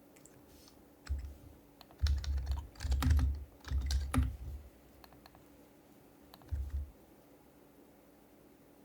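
Typing on an HHKB Professional HYBRID Type-S keyboard with silenced Topre switches: soft clicky keystrokes with a dull thud under them, in a short burst about a second in, a longer run of keys over the next couple of seconds, and one more brief burst later.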